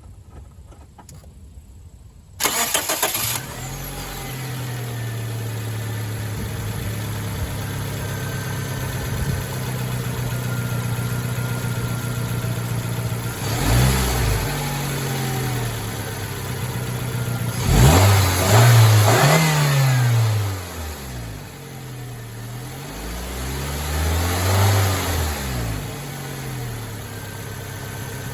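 Nissan Almera N16's four-cylinder petrol engine starting about two seconds in, then idling, revved up and let fall back three times, running after its spark plugs have been replaced.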